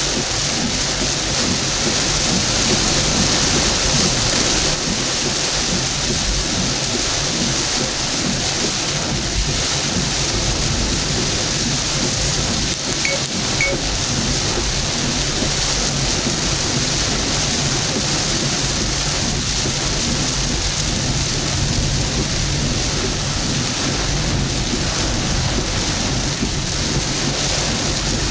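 Heavy rain falling steadily on a moving vehicle, heard from inside at the windscreen, with a low rumble underneath. It swells slightly a few seconds in.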